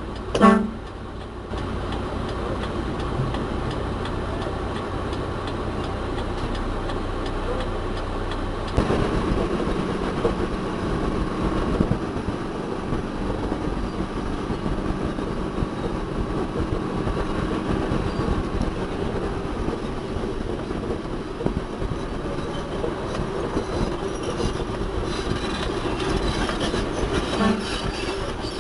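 Heavy diesel vehicle running steadily, with a dense mechanical rattle; it gets louder about nine seconds in.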